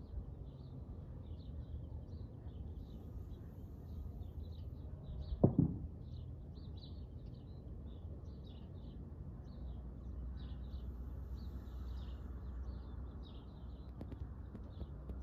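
Small birds chirping steadily, many short high chirps a second, over a low steady rumble, with one brief loud thump about five and a half seconds in.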